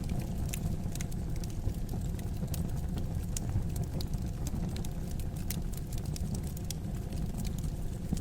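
Wood fire burning in a fireplace: a steady low rumble of the flames with irregular sharp crackles and pops from the burning logs, several each second.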